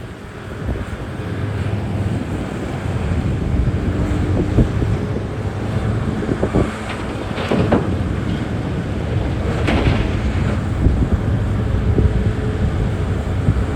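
Heavy diesel mining machinery running with a steady low rumble, heavily buffeted by wind on the microphone. There are a few louder, rough bursts about halfway through.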